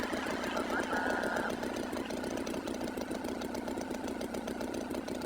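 An engine idling with a fast, even chug. A brief higher tone sounds over it about a second in.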